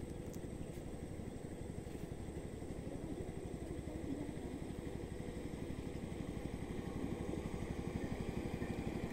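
A small engine running steadily, a rapid low chugging that holds even throughout.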